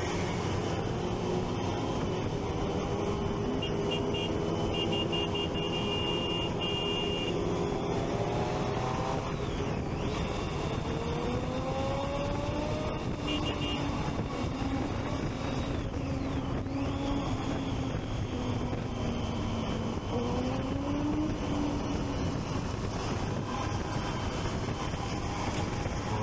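Triumph Street Triple 675's inline three-cylinder engine under way, rising in pitch several times as it pulls and then dropping back, over steady wind and road noise.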